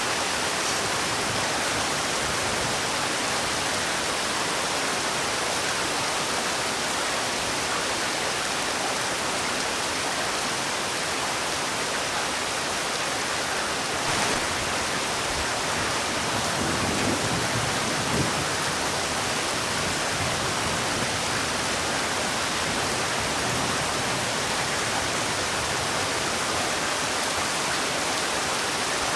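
Heavy rain falling steadily as an even hiss, with a couple of slightly louder moments a little past the middle.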